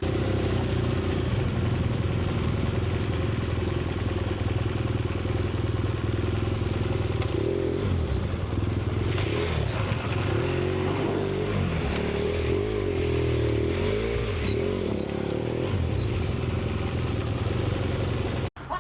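An engine running steadily under load, its pitch wavering up and down through the middle as the revs change, cutting off abruptly near the end.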